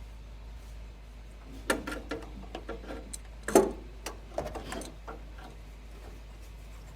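Scattered clicks and light knocks of ignition parts and plug wires being handled and fitted, over a steady low hum; the loudest knock comes about halfway through.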